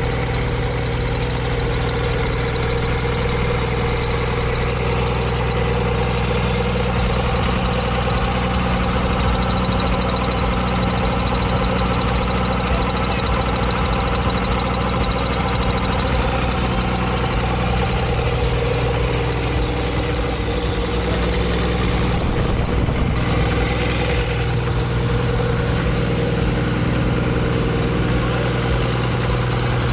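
Freshly overhauled Ashok Leyland H-series 180 hp bus diesel engine idling steadily.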